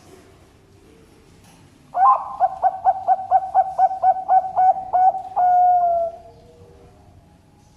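Zebra dove (Bangkok-strain perkutut) singing one song: a quick run of about a dozen short coos, about four a second, ending in one long, slightly falling note.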